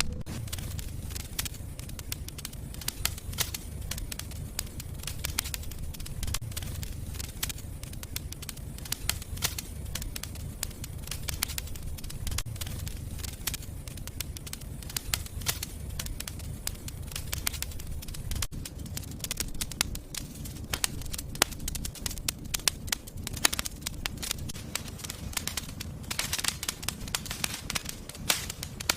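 Wood fire crackling in a fireplace: many sharp pops and snaps over a low, steady rumble of the flames, with a brief hiss near the end.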